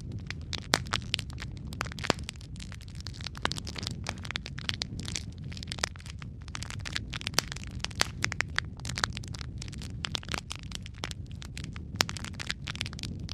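Wood logs burning in a fireplace: irregular crackling and sharp pops, several a second, over a steady low rumble of the flames.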